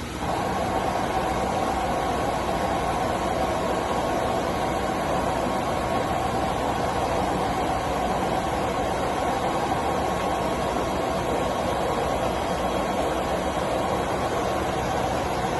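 CNC milling machine running: a steady mechanical noise that steps up just after the start, as the machine gets louder, and then holds level.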